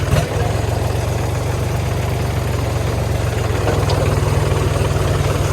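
Diesel tractor engine running steadily and loudly close by.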